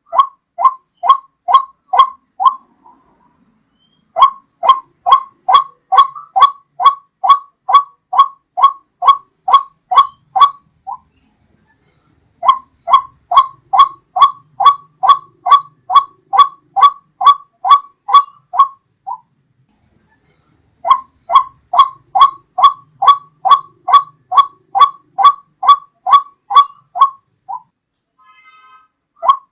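White-breasted waterhen (ruak-ruak) calling: one pitched note repeated about two and a half times a second, in four runs of several seconds with short pauses between them.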